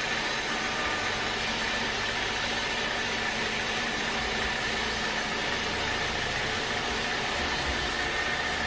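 Sawmill machinery running steadily: an even mechanical drone with a faint high whine.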